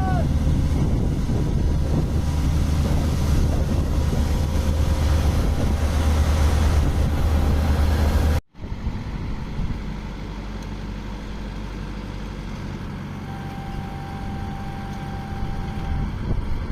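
Tractor diesel engine running steadily with wind on the microphone. The sound cuts off abruptly about eight seconds in and picks up again quieter. A faint steady tone sounds for about three seconds near the end.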